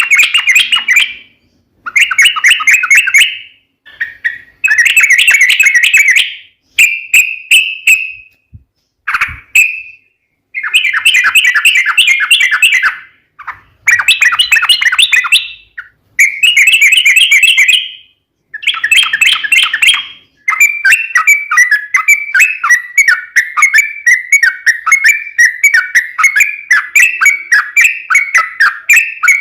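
Yellow-vented bulbul (trucukan) singing loudly: bubbly, warbling phrases a second or two long with short pauses, then about two-thirds of the way through a long unbroken run of rapid notes, the 'ropel panjang' rolling song used as a lure to set other trucuk birds singing.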